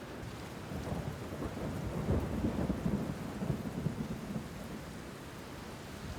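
Steady rain with a low roll of thunder that builds about a second in and dies away over the next few seconds.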